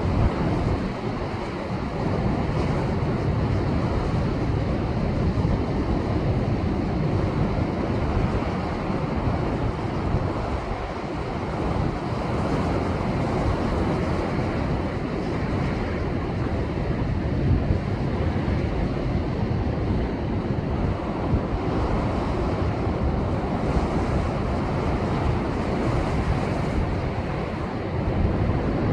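Rough post-typhoon sea surging and breaking on a rocky shore: a continuous heavy rush of surf, strongest in the low end, swelling and easing slightly without a break.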